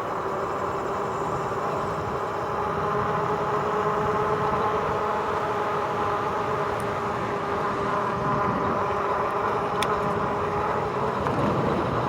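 RadRover 5 e-bike's hub motor whining steadily under pedal assist, over a steady rush of riding noise.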